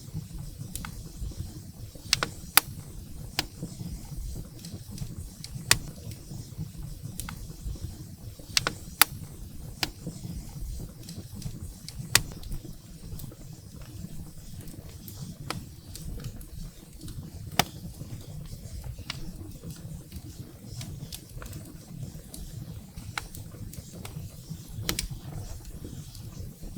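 Wood fire burning in a fireplace: a steady low rumble of flames with irregular sharp crackles and pops of burning firewood, a few of them loud.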